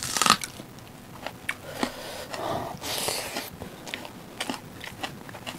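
Close mouth sounds of people eating by hand: chewing and biting with scattered small clicks, and two short noisy bursts, near the start and about three seconds in.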